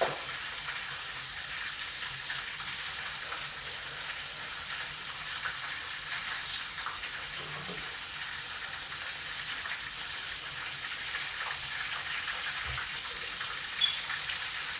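Chicken fillets frying in hot oil: a steady crackling sizzle, with a couple of sharp clicks about six and a half and fourteen seconds in.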